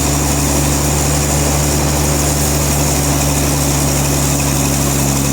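A sawmill's engine running steadily at an even, unchanging pitch, with a steady hiss above it.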